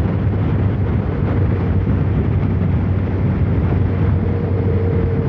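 Kawasaki ZR-7's air-cooled inline-four engine running at a steady, even speed while riding, with wind noise over it.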